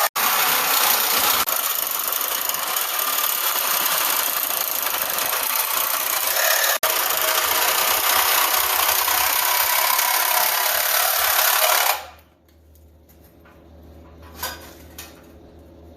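Angle grinder cutting steel to cut out a frame patch piece, a loud steady hiss that stops abruptly about twelve seconds in, followed by a few faint clicks.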